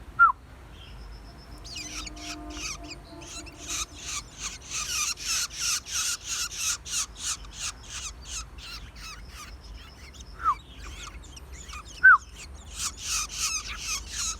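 Shrikes giving a fast series of harsh, rasping calls, about three a second, louder in the middle and near the end, with three short, loud downward-sliding chirps: one right at the start and two about ten and twelve seconds in.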